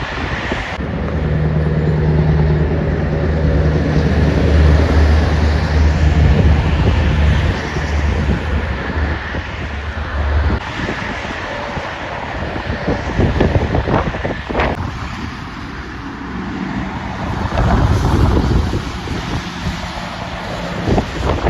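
Heavy truck passing on the road, its engine giving a deep steady note for the first half, then tyre and traffic noise from passing vehicles. Wind buffets the microphone.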